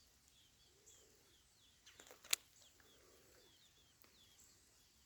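Faint, repeated high peeping of young chicks, each peep short and falling in pitch, with one sharp tap a little over two seconds in.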